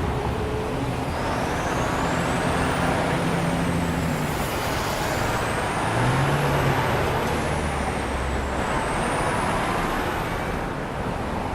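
Cartoon garbage truck sound effect: a truck engine running steadily, with a faint high whine that rises and falls several times.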